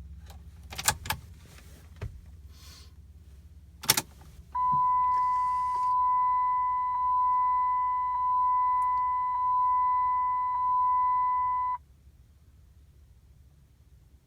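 A few sharp clicks, then a car's steady high electronic beep tone lasting about seven seconds. It swells slightly about once a second and cuts off suddenly.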